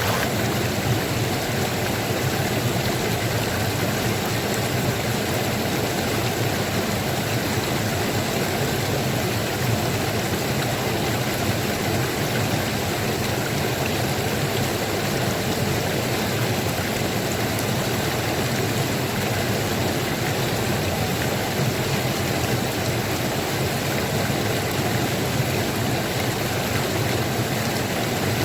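Running water flowing steadily, an unbroken rush with no separate splashes or changes.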